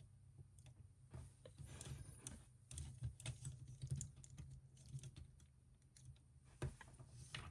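Faint, irregular clicks and taps of hard plastic as an action figure and its swords are handled and posed, over a low room hum.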